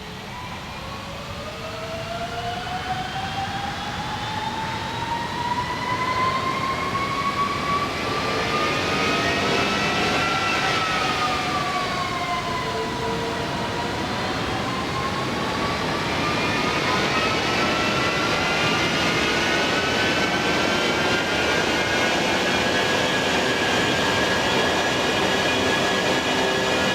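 Airbus A330-300's jet engines spooling up for takeoff: a rising whine over a growing roar, dipping in pitch for a few seconds about halfway, then climbing again and holding steady and loud.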